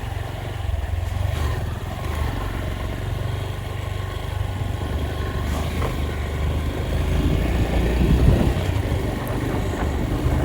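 Engine of a moving road vehicle running steadily, with rumble from the road and wind, getting somewhat louder about eight seconds in.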